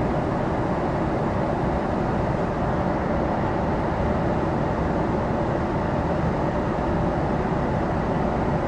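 Steady airliner cabin noise in flight: the constant rush of engines and airflow, even and unchanging.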